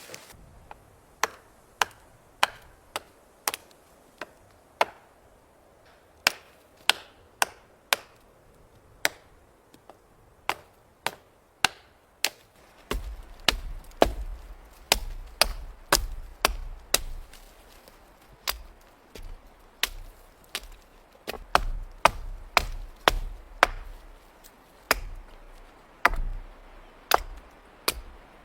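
Wood being chopped with a blade: a long run of sharp, quick blows, roughly one to two a second, coming faster in the second half.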